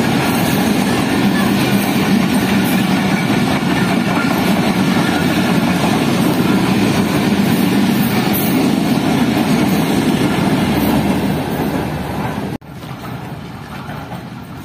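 Passenger train passing close by: a loud, steady rush of its coaches running over the rails, which cuts off abruptly about twelve and a half seconds in, leaving a much quieter background.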